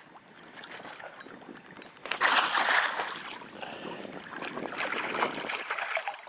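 Water splashing and sloshing around a small boat, with a louder rush of splashing about two seconds in that eases off over the next second.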